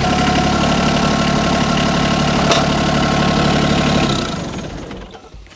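Tractor engine idling steadily, then dropping away about four seconds in.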